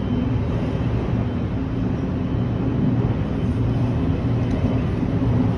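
Running noise inside the cabin of a JR Haruka limited express train at speed: a steady low rumble with a faint hum.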